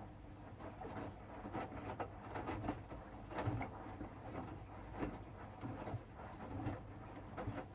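Hoover washing machine mid-wash, its drum turning and the laundry tumbling: irregular soft knocks and rustles over a steady low hum.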